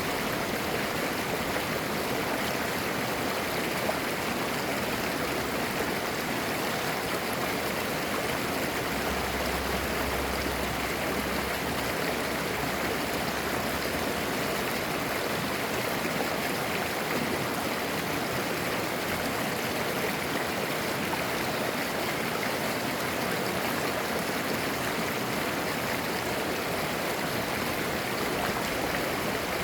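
Clear mountain stream babbling and gurgling over rocks, a steady rush of running water. A brief low rumble sits under it about nine seconds in.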